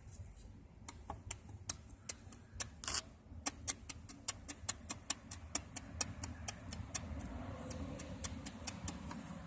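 Cylinder 5 connecting rod of a VW 12-valve VR6 clicking sharply as it is worked, about two to three clicks a second from about a second in. The clicks are the free play of a spun rod bearing.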